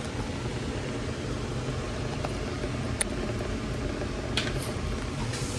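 Steady low rushing hum, like a running fan, with a couple of faint clicks about three and four and a half seconds in.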